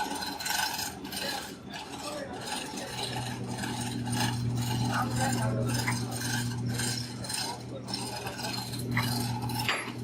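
Irregular clinks, taps and scrapes of metal hand tools and parts being worked on. A steady low electrical hum starts about three seconds in and stops just before the end.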